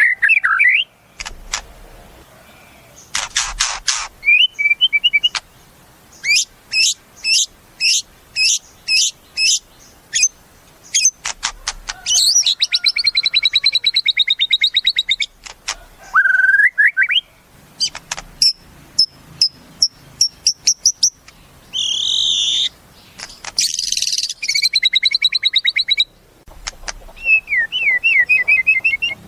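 White-rumped shama (murai batu) singing a loud, varied song: strings of sharp whistled notes, fast rattling trills and a lower slurred whistle, in phrases with short pauses between them.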